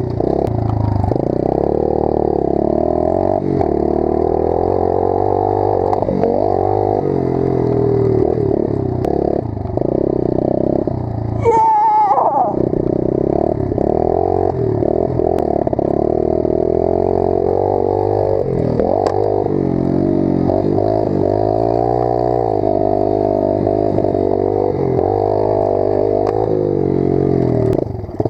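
Pit bike engine running and being ridden, its revs rising and falling again and again, with clattering from the bike. About halfway through the engine sound breaks off for a moment with a short rising whine, then carries on.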